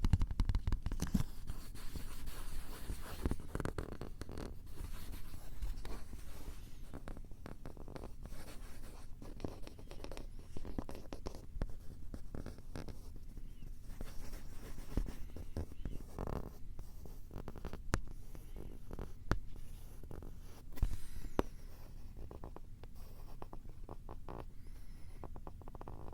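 Fingers scratching, rubbing and tapping right on a handheld Tascam recorder's microphones: a dense, irregular run of crackly scratches and sharp taps over a low handling rumble.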